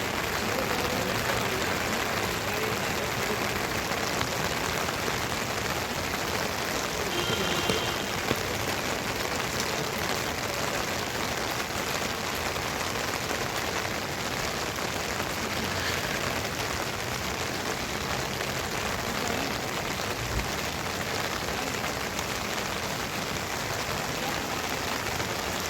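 Steady, even rushing of water with no let-up, the sound of heavy rain or floodwater after a cloudburst.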